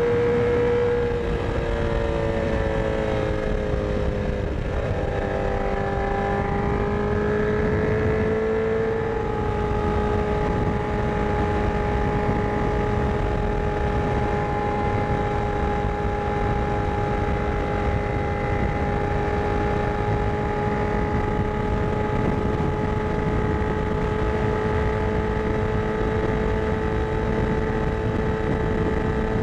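Honda CBR1000RR Fireblade inline-four with a Yoshimura exhaust, heard from the rider's seat while cruising on the highway, over a rush of wind noise. The engine note eases down slightly a few seconds in, then holds steady.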